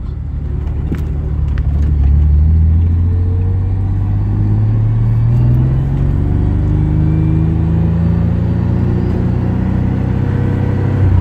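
Car engine pulling away under acceleration, its pitch rising twice with a drop between, as at a gear change.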